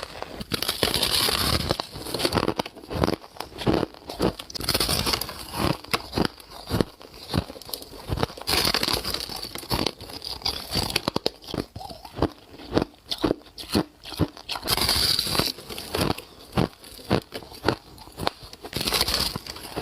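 Soft ice being bitten and chewed close to the microphone: a crunchy bite every few seconds, with quick crackling chews between them.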